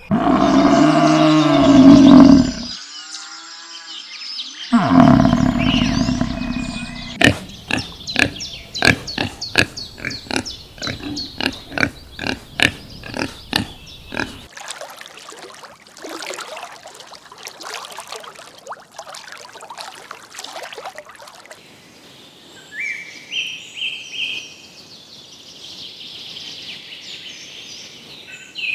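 Elephants calling loudly twice in the first seven seconds, low pitched calls with several overtones. Then comes a quick run of sharp repeated sounds, about two a second, until about halfway through, then quieter animal sounds.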